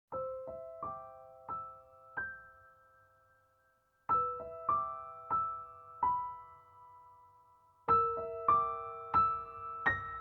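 Background music: a solo piano playing a slow, gentle melody in three short phrases of a few notes each, every note ringing and fading. It starts right after a silence, with brief pauses between phrases.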